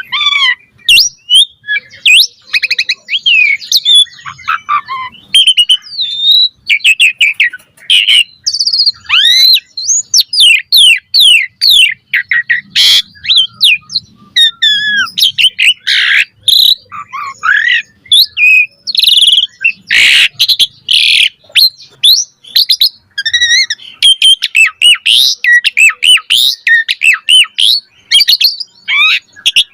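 Asian pied starling singing a fast, continuous, varied song of quick rising and falling whistles and chattering notes, with an occasional harsh, rasping note.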